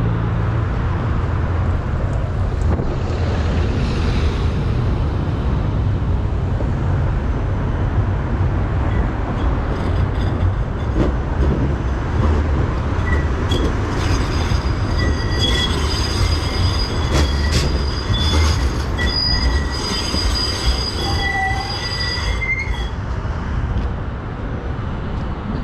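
Tram rumbling along its rails, with high, steady metal wheel squeal starting about halfway through and cutting off sharply near the end.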